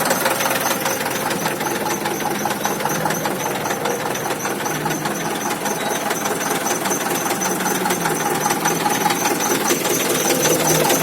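Truck engine running steadily, with a fast, even clatter.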